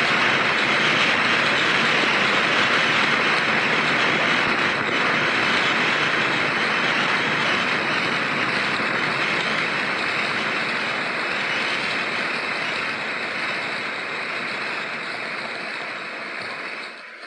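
Heavy rain pouring down in a thunderstorm, a steady rushing hiss that eases gradually toward the end.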